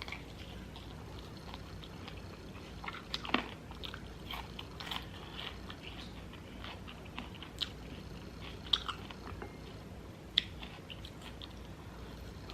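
A person biting and chewing crunchy food close to the microphone: scattered short crunches and clicks over a quiet room hum, the loudest about three seconds in and near ten seconds.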